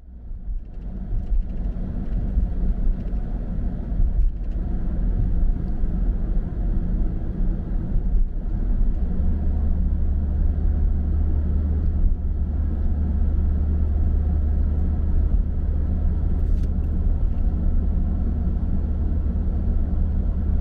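A car in motion: a steady low rumble of engine and road noise, which grows deeper and stronger about nine seconds in.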